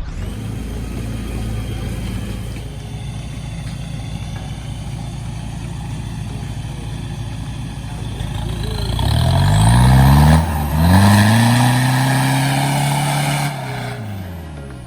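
Off-road vehicle engine running steadily, then revving hard about nine seconds in: the revs climb twice with a brief drop between, hold high, and fall away near the end.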